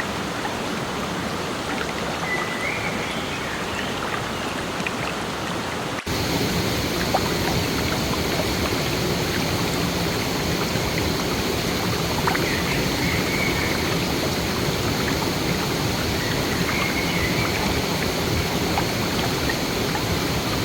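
Steady rush of flowing water, as from a stream, with a sudden step to a louder, brighter rush about six seconds in.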